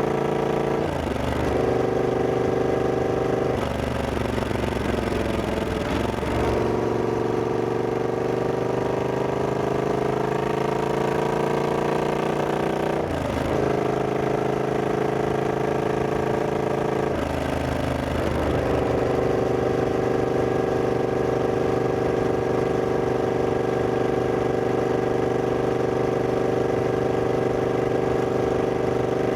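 Triumph Scrambler 1200X's parallel-twin engine under way, with its pitch dropping and climbing again several times in the first two-thirds as the rider changes gear and accelerates, then running at a steady pitch for the last ten seconds or so.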